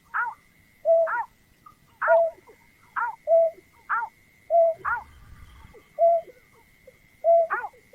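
Greater painted-snipe calling: a loud two-part call, an arching note followed by a short lower note, repeated about once a second, with a pause of a second or so in the middle. A faint steady high whine runs underneath.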